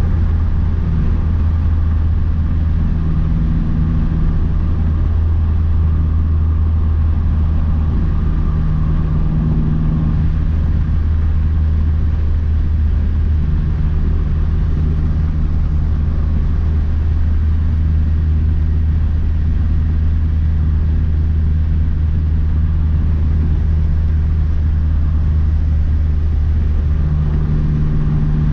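Big-turbo 2012 Mazdaspeed 3's turbocharged 2.3-litre four-cylinder running at a steady cruise, a constant low drone with road noise and no revving.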